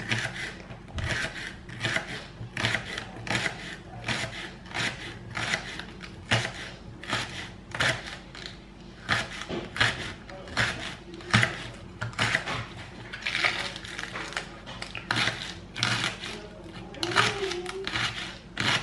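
A knife chopping on a cutting board, a steady run of sharp knocks at roughly two to three strokes a second, as ingredients are cut for a pasta salad.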